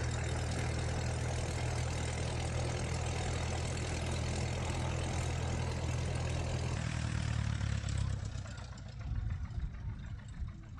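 Cessna 172's piston engine idling just after start-up, with a steady low drone. The drone weakens and breaks up about eight seconds in.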